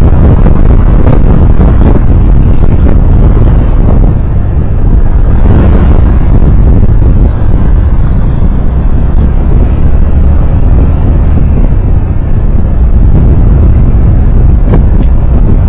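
Steady, loud, low rumble of a vehicle on the move: road and engine noise from a moving car or motorcycle, with a faint tick a couple of times.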